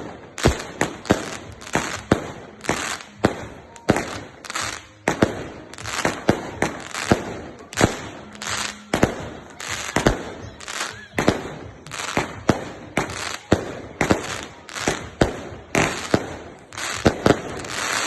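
Fireworks going off in a rapid barrage: sharp bangs one after another, about two a second, stopping abruptly at the end.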